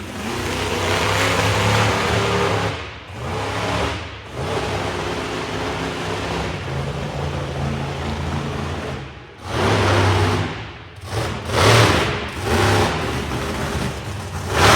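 Monster truck engine revving hard, the note rising and falling. It drops away sharply several times before coming back.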